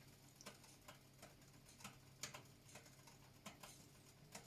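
Near silence with faint, sharp, irregular ticks, roughly three a second, over a low steady hum.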